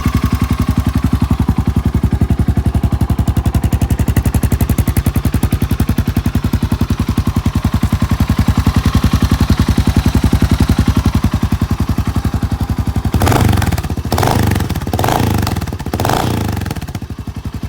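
Suzuki LS650 Savage's 652 cc single-cylinder engine idling with an even beat, freshly started without choke. About thirteen seconds in the throttle is blipped several times in quick succession, then it settles back to idle.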